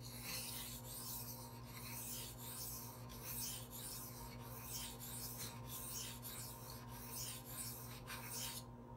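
Knife edge stroked back and forth on a Gritomatic 1000-grit silicon carbide sharpening stone, a rasping stroke about twice a second as the stone cuts the steel. A steady low hum runs underneath.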